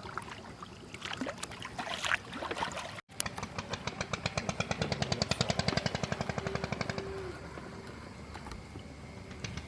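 A small boat engine chugging in fast, even beats, about nine a second, after a sudden break about three seconds in.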